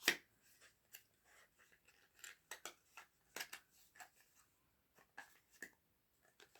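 Irregular light clicks and rustles of small items and packaging being handled, with a sharper click at the very start.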